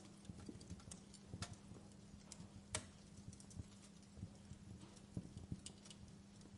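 Wood fire crackling, faintly, with irregular small pops and one sharper pop about three seconds in, over a steady low hum.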